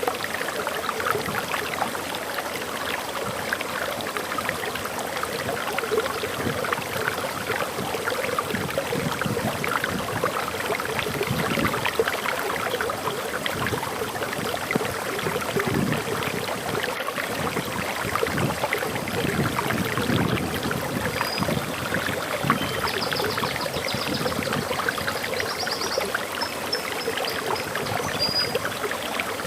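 Waterfall water pouring and splashing steadily. In the last third a small bird gives a short series of high chirps.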